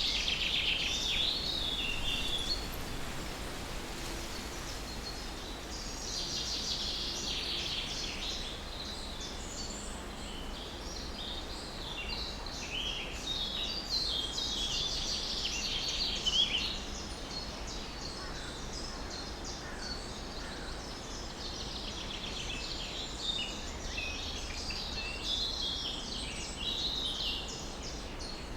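Small songbirds chirping and singing, with many quick high calls overlapping in clusters that come and go, over a steady low background rumble.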